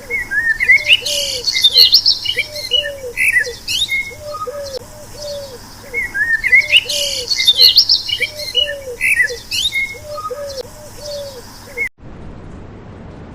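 Birdsong: high chirps and trills over a low, evenly repeated cooing call. The same stretch of calls plays twice, then cuts off about twelve seconds in to a steady rushing noise.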